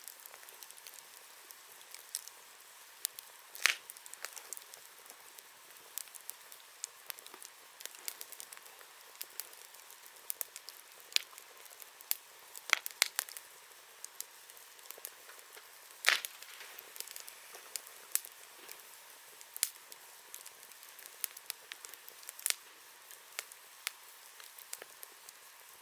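Wood bonfire crackling: irregular sharp pops and snaps over a soft hiss. The loudest pops come about four seconds in and again about sixteen seconds in.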